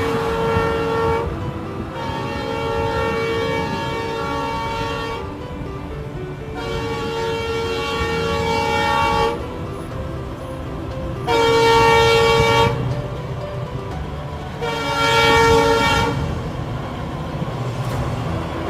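Train horn sounding a series of about five long blasts on the same multi-note chord, with short gaps between them, over the steady low rumble of the train running.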